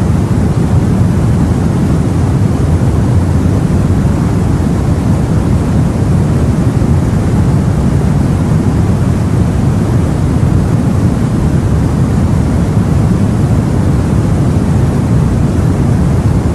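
Steady, unbroken sea noise: a deep low rumble with a softer hiss above it and no distinct wave breaks.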